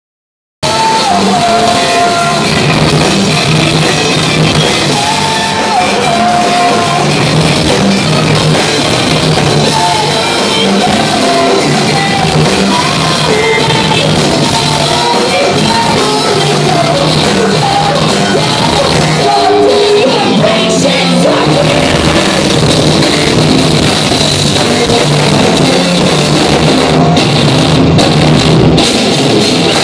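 Loud live rock music from a full band, with a singer's voice over the band, starting abruptly about half a second in.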